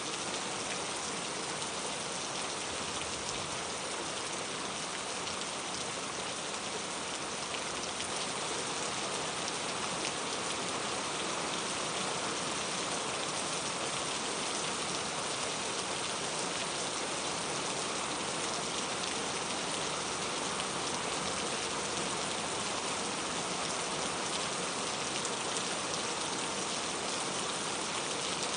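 Steady rain falling and pattering on surfaces, an even hiss of many drops with no let-up.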